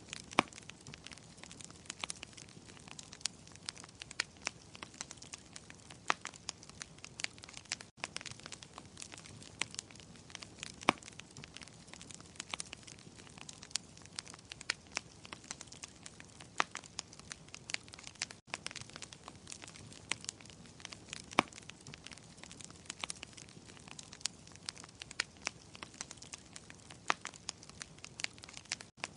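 Wood fire crackling: irregular sharp pops and snaps of varying loudness over a steady soft hiss. The sound cuts out for an instant twice.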